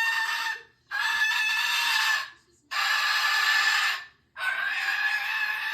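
Parrot screaming in a run of long, steady-pitched calls, each a second or more long with short gaps between, four in a row.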